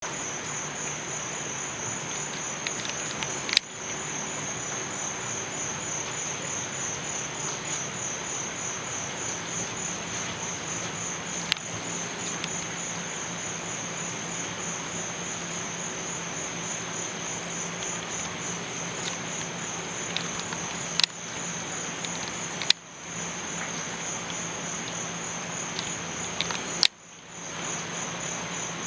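Crickets chirping in a steady, fast pulsing high trill. A few sharp clicks break in, several followed by a brief dip in the sound.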